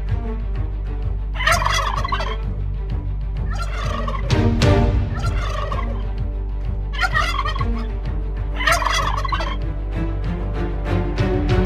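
Turkey gobbling: four rattling, warbling gobbles a couple of seconds apart, over a steady low hum.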